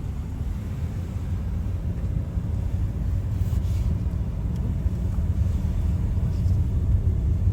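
Steady low road and engine rumble of a moving car, heard from inside the cabin, growing slightly louder toward the end.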